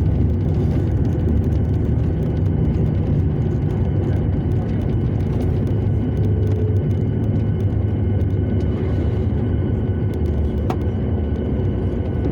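Jet airliner cabin noise heard from a window seat: a steady low rumble of engines and airframe, with faint thin whining tones above it, easing slightly near the end.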